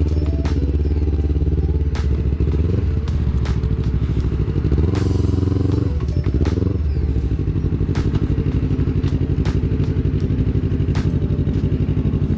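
Yamaha R25's parallel-twin engine running through an aftermarket Villan MV1 exhaust, a deep, bassy note whose pitch falls and rises a couple of times with changes in revs. Scattered sharp clicks sound over it.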